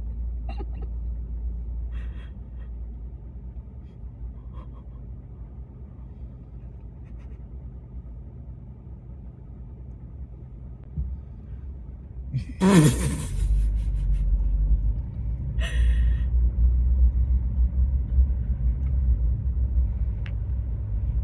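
Low rumble of a car's running engine heard from inside the vehicle, growing louder about two-thirds of the way through. Just before that there is a brief loud sound that drops sharply in pitch.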